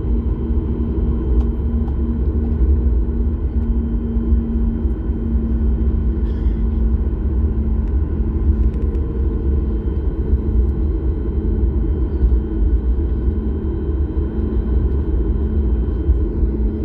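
Jet airliner cabin noise: a steady low rumble from the engines and airflow with a constant hum over it.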